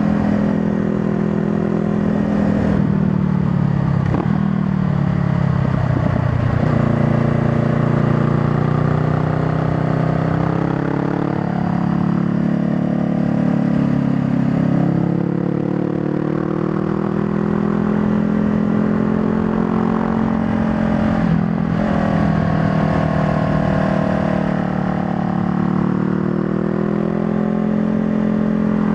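Honda Rebel 500's parallel-twin engine running on the road. Its note falls about three seconds in, climbs again, and rises and drops several more times with throttle and gear changes, then holds fairly steady with one brief dip near the end.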